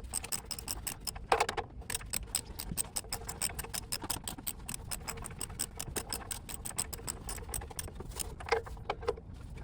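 Socket ratchet clicking steadily, several quick clicks a second, as the oil drain plug is run back into the oil pan, with a couple of louder knocks near the start and near the end.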